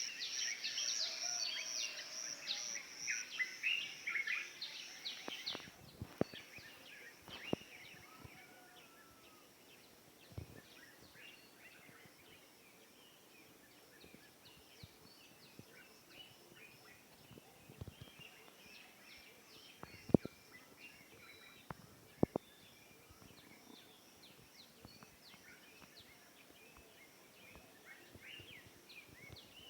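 Early-morning dawn chorus of many small birds chirping and calling, dense for the first five seconds or so and then thinning to scattered chirps. A steady high-pitched whine runs underneath, and a few sharp knocks sound during the quieter part.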